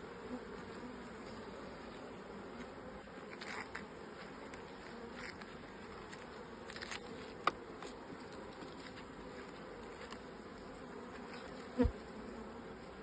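Honeybees buzzing steadily around an open hive as its frames are lifted and inspected. A sharp click about seven and a half seconds in and a low thump near the end.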